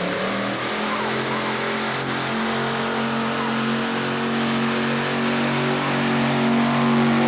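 Modified pulling tractor's engine running hard: a steady, loud drone that slowly climbs in pitch and grows louder.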